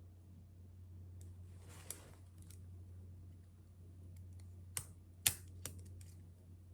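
A few scattered keystrokes and light clicks at a desk, the sharpest three close together past the middle, with a soft rustle about two seconds in and a steady low hum underneath.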